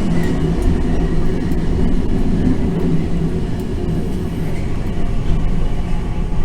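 Randen tram rolling along, heard from inside the car: a steady low rumble of wheels and traction motors with a faint hum.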